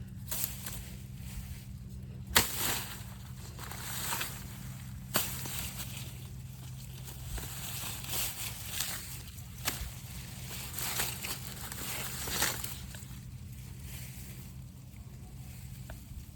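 Cutting at a banana plant: a few sharp chops, the loudest about two seconds in, among short rustling and scraping sounds over a steady low hum.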